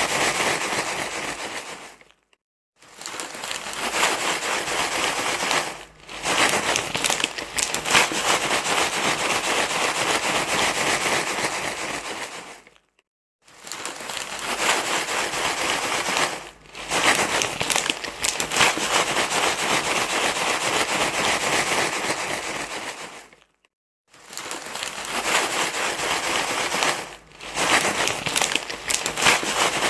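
Steady crinkling rustle, as of something being crumpled and rubbed. It plays in stretches of several seconds, with a brief full silence about every eleven seconds and shorter dips between.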